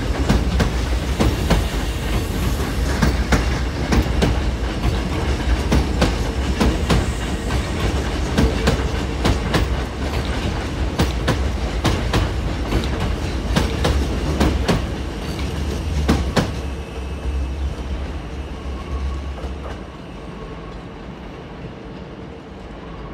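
A Hankyu electric train pulling out, its wheels clacking rapidly over the points and rail joints over a low rumble. The clacking stops about 16 seconds in, and the rumble dies away a few seconds later, leaving a quieter background.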